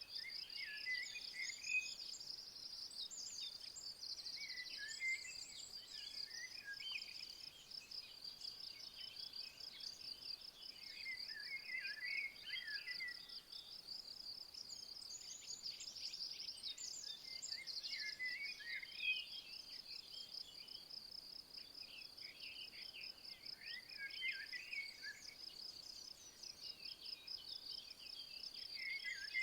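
A cricket-like insect chirring steadily in a fast, even pulse, with a songbird giving short warbling phrases every few seconds over it.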